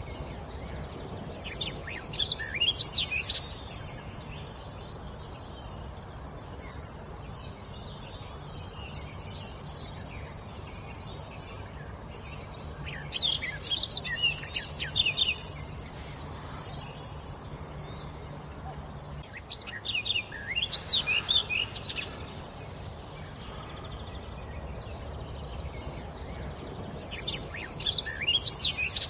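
A songbird singing: four short phrases of quick, rapid chirps and sweeping notes, the first about two seconds in and the others roughly every seven seconds, over steady low background noise.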